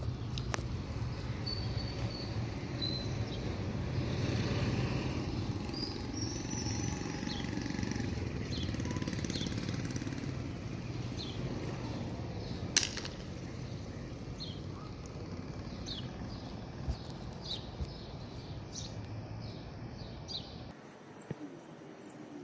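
A steady low mechanical rumble with many short bird chirps over it and one sharp click about two-thirds of the way through. The rumble stops abruptly near the end, leaving only the chirps.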